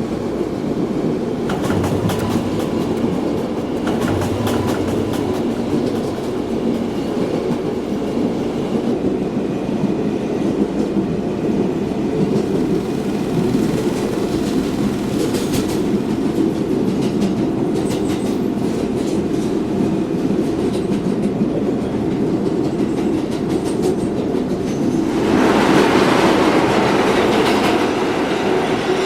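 R142A subway train running between stations, its wheels rumbling and clicking over the rail joints. About 25 seconds in the running noise grows suddenly louder and brighter.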